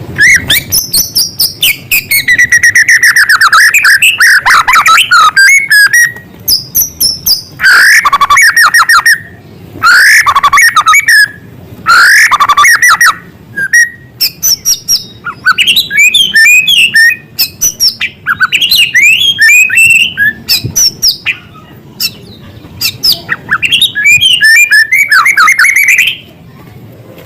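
White-rumped shama (murai batu) singing loudly in rapid, varied phrases of whistles and fast trills, packed with mimicked small-bird calls, with short pauses between phrases. The song stops about 26 seconds in.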